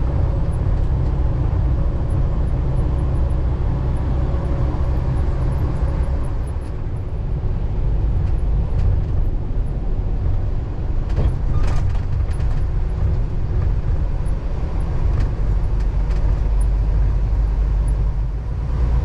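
Semi truck's engine and road noise heard from inside the cab while driving, a steady low rumble, with a few brief clicks a little past halfway.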